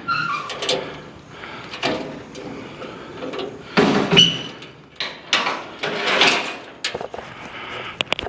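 Scrap metal items being handled and loaded onto a trailer: a string of clanks, bangs and scrapes, about seven in all, the loudest a pair of knocks about four seconds in.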